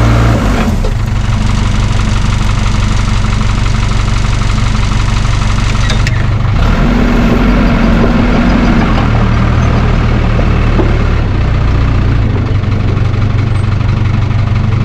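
Case 550G crawler dozer's diesel engine running, its low note shifting several times as the machine is worked.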